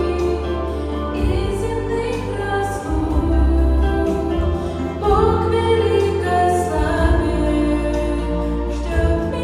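A female vocal trio singing a slow song in harmony over instrumental accompaniment with sustained bass notes.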